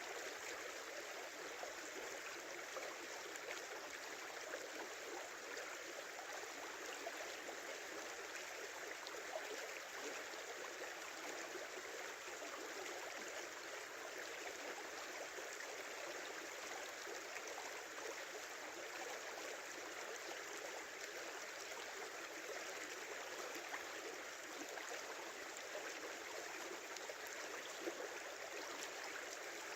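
A small river running in winter thaw, steady babbling and rushing water, with a few brief louder splashes.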